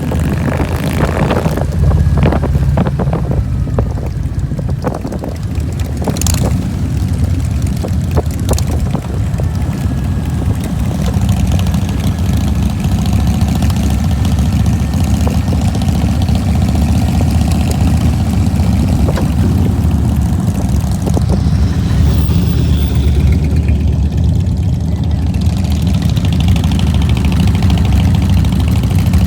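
Motorcycle engine running with a steady low drone, with several sharp clicks or knocks during the first nine seconds or so.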